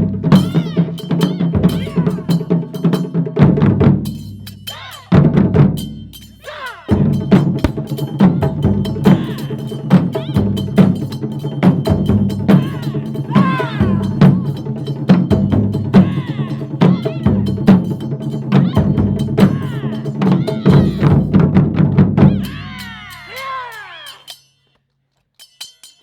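Japanese taiko drums played by an ensemble in rapid strikes over steady sustained musical tones, with high gliding whistle-like tones sweeping down here and there. The sound fades in the last few seconds and drops to silence shortly before the end.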